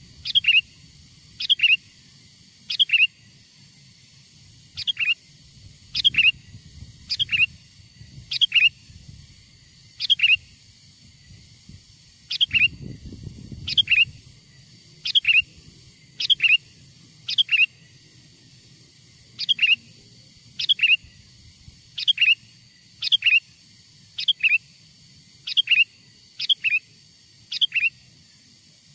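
Sooty-headed bulbul calls used as a lure for wild bulbuls: short, loud notes that fall in pitch, often in quick pairs, repeating about once a second. A brief low rumble sits under the calls about halfway through.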